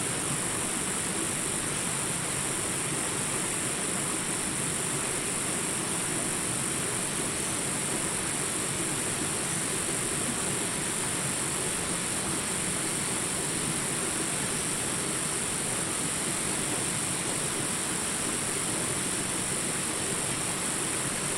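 Small jungle rapids, water rushing steadily over rocks, with a constant high insect buzz over it.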